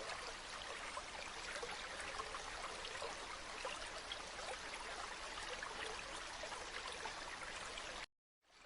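Flowing stream: a steady rush of running water flecked with small splashes and trickles. It cuts out suddenly about eight seconds in, then comes back softer.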